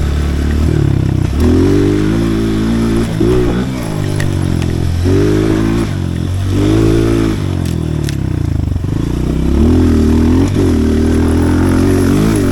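Pit bike engine revving up and easing off again and again as it is ridden around a dirt track, its pitch climbing and dropping about every one to two seconds.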